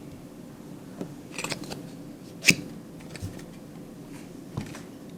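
Cardboard and plastic packaging of a model aircraft box being handled and opened: scattered light clicks and rustles, with one sharp snap about two and a half seconds in.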